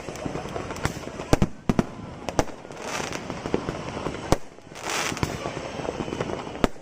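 Fireworks going off: a series of sharp bangs from bursting shells, with two longer crackling hisses about three and five seconds in.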